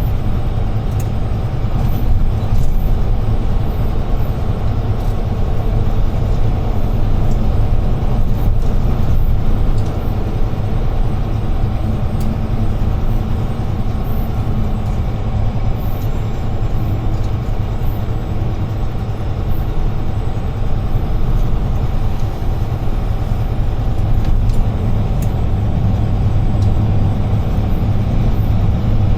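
UD Trucks Quon heavy truck driving along, heard from inside the cab: a steady low diesel engine drone mixed with road and tyre noise, with a few faint ticks.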